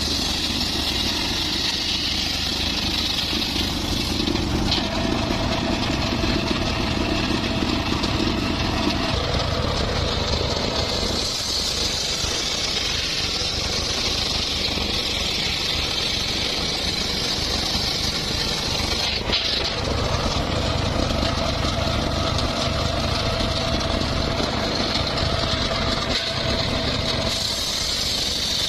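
Homemade circular saw rig running steadily as it saws mahogany, its sound shifting several times as the blade's load changes.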